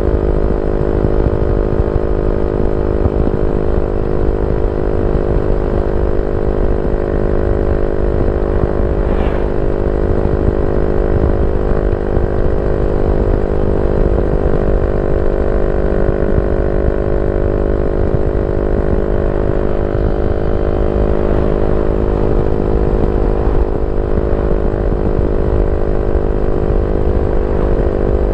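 Yamaha Y15ZR's 150 cc single-cylinder four-stroke engine running through a YYPANG SD3 aftermarket exhaust, holding a steady engine speed, its pitch easing slightly lower near the end.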